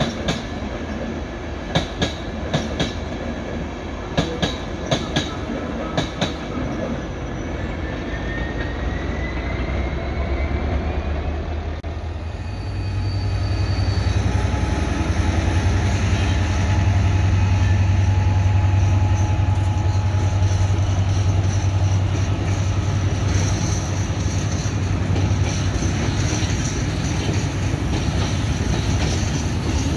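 A train running through: sharp wheel clicks over rail joints in the first few seconds and a faint rising whine. From about twelve seconds in, a steady low drone sets in and the sound grows louder.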